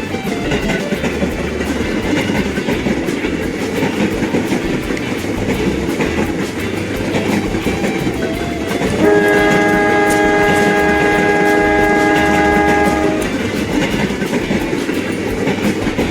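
A train running with clattering wheels, and a multi-tone locomotive horn sounding one steady chord for about four seconds, starting about nine seconds in.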